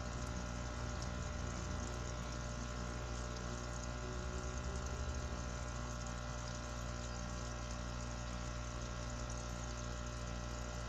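Aquarium filter pump running steadily, with the rush of circulating water and a constant hum.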